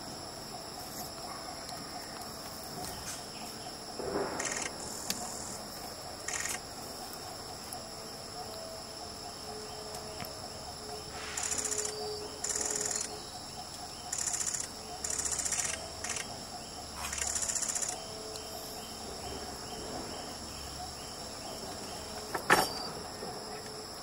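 Forest insect chorus: a steady high-pitched drone with short rasping bursts every second or two through the middle, and one sharp click near the end.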